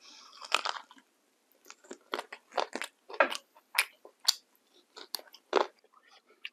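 Close-miked chewing of crunchy food: a string of sharp, uneven crunches and wet mouth sounds, about ten crunches in a few seconds.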